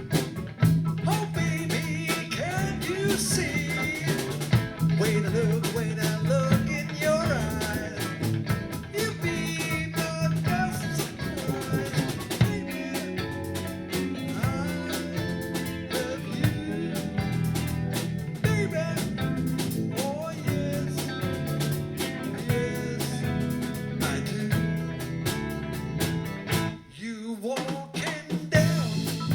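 A rock and blues band playing live, with electric guitar, bass and drum kit. The playing stops briefly near the end, then comes back in.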